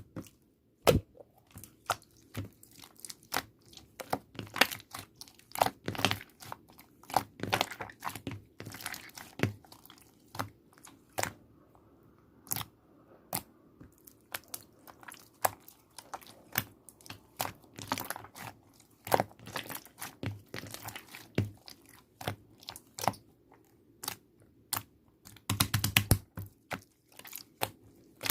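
Slime being handled, squeezed and poked, giving irregular sharp clicks and sticky pops that come in clusters with quieter gaps between.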